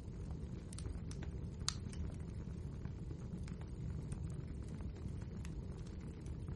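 Wood fire burning in a fireplace: a steady low rumble of the flames with frequent irregular crackles and pops from the burning logs, one sharper pop about two seconds in.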